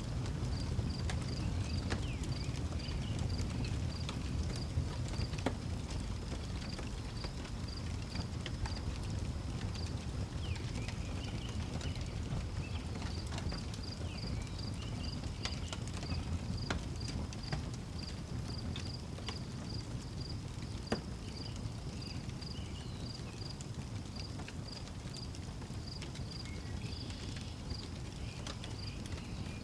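Wood fire crackling with scattered sharp pops over a low steady rumble, while crickets chirp in an even, steady rhythm. A few short bird calls come and go.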